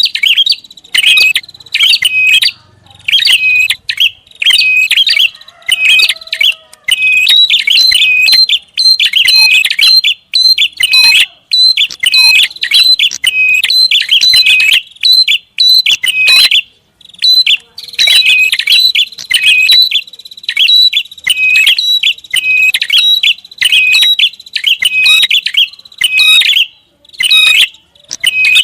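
Prinia (prenjak) lure call: loud, noisy series of sharp, high chirping notes, repeated phrase after phrase with only brief pauses.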